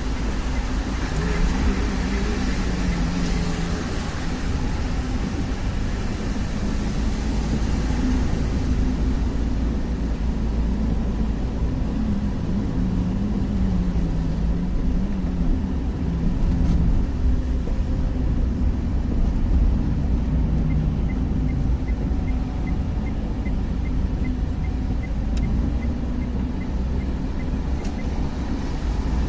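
Car on the move: a steady low rumble of engine and road noise with a wavering hum. A hiss is stronger for the first several seconds, and a run of light, regular ticks at about two a second sounds in the last third.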